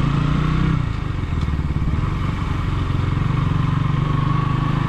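KTM Duke 200's single-cylinder engine running steadily, its pitch and loudness dipping briefly about a second in.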